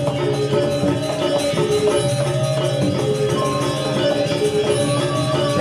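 Balinese gamelan music: held ringing metallophone tones over a fast, dense run of percussion strokes.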